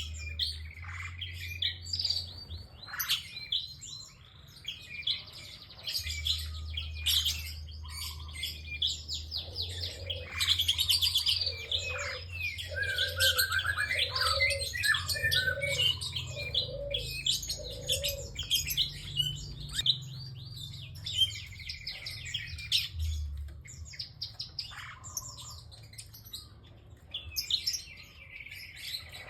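A prinia (prenjak) singing energetically: fast, sharp, repeated chirps and trills, with a run of about six lower notes in the middle. A steady low hum lies underneath.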